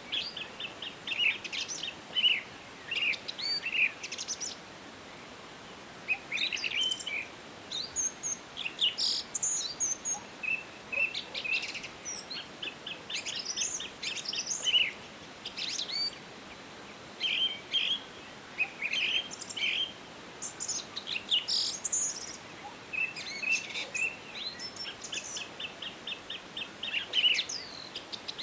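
Several songbirds singing and calling in a forest, with short chirps, quick up-and-down sweeps and rapid trills of repeated notes overlapping, over a faint steady background hiss.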